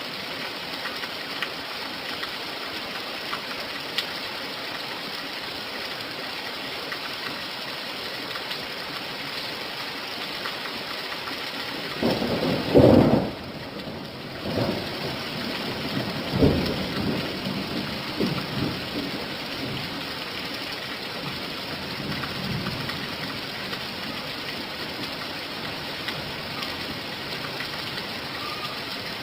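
Steady rain falling, a constant even hiss. About halfway through, thunder rumbles for several seconds in a few rolls, the loudest thing here, and the rain sound briefly drops out near its peak.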